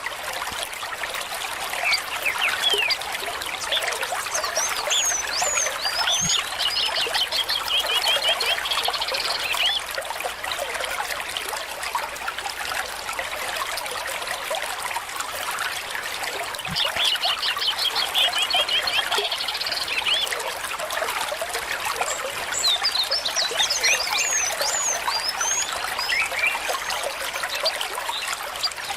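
Small stream trickling and babbling steadily, with birds calling over it. There are high chirps and quick runs of repeated notes in bouts, about five, seventeen and twenty-three seconds in.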